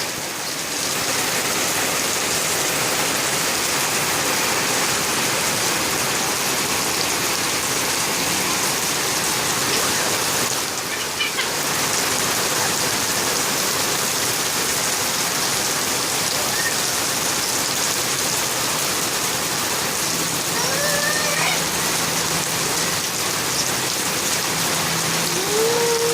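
Steady rain falling, an even, unbroken hiss throughout.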